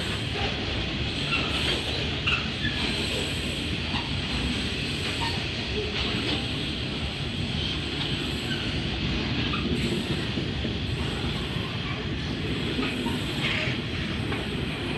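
Coal hopper wagons of a long freight train rolling past: a steady rumble of steel wheels on rail, with brief high wheel squeals here and there.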